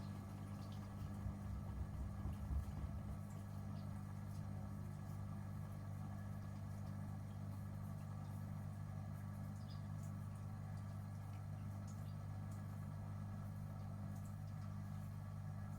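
Gorenje UseLogic washing machine running with a steady low hum, with a few low rumbles in the first few seconds.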